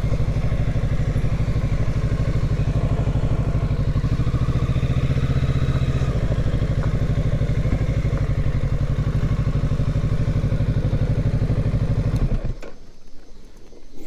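Kawasaki Ninja 650 parallel-twin engine idling steadily at an even pitch, then switched off about twelve seconds in, cutting out suddenly.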